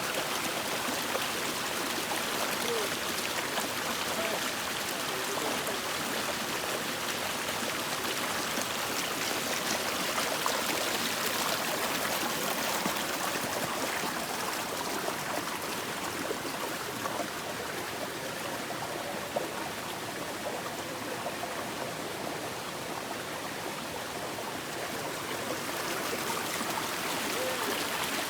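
Steady sound of running water, a stream flowing.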